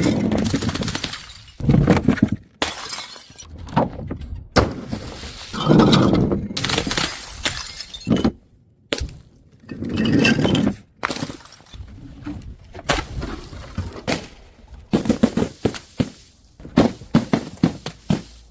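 Glass bottles dropped from height shattering on the ground, one after another: a string of sudden smashes, each followed by crackling and tinkling shards.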